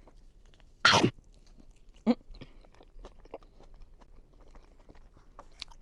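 A person chewing a bite of pizza, small mouth clicks and crunches of the crust throughout, with one louder crunching sound about a second in and a brief hum about two seconds in.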